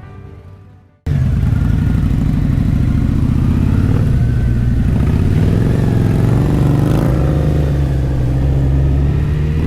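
Kawasaki Z1000's inline-four engine running with a loud, steady low rumble. It starts abruptly about a second in, and its pitch wavers slightly partway through.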